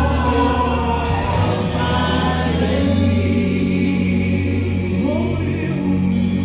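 Gospel music: a choir singing over steady, sustained low instrumental notes.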